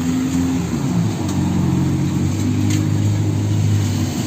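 Electric power tool motor running under load while cutting metal, its hum shifting in pitch over a steady hiss.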